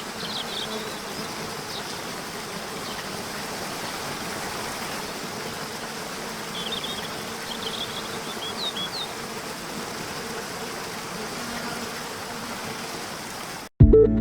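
Steady rush of flowing water, likely a waterfall, under a steady insect-like buzz, with a few short bird chirps just after the start and again about seven to nine seconds in. It cuts off suddenly near the end, where music begins.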